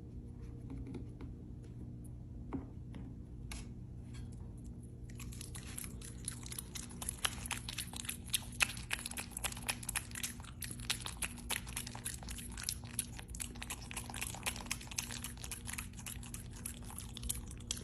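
Close, crunchy chewing: a rapid, irregular run of small crunches that starts about five seconds in, over a steady low hum.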